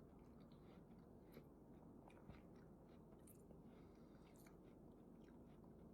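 Faint chewing with a few soft, scattered mouth clicks, very quiet over room hiss.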